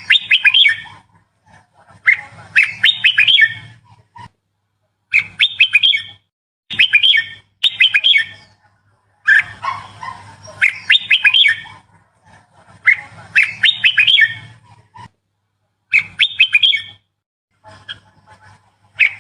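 Red-whiskered bulbul singing: short, loud phrases of quick, bright notes, repeated about every two seconds with brief pauses between them.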